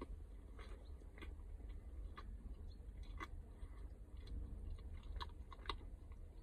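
A person chewing a mouthful of soft donut close to the microphone, with irregular small wet clicks and smacks of the mouth.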